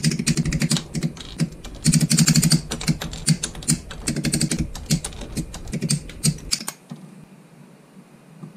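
Rapid, irregular runs of sharp clicking that stop about six and a half seconds in, leaving a faint hiss.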